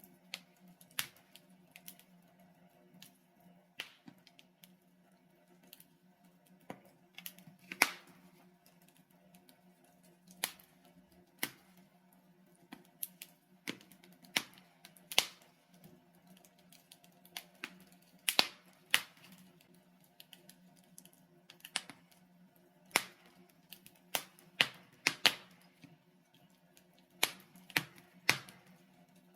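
Wood fire of burning logs crackling, with irregular sharp pops about once a second, sometimes several in quick succession, over a faint steady low hum.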